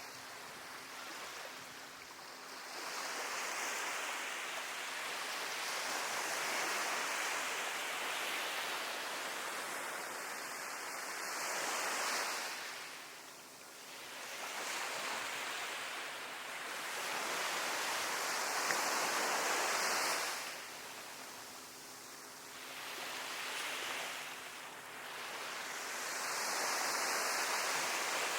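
Sea waves breaking and washing up the shore, the hiss of surf swelling and falling back every several seconds.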